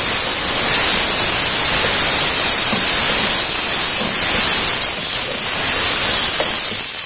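Chicken strips and julienned carrots sizzling steadily and loudly in hot oil in a pan while being stirred with a wooden spoon.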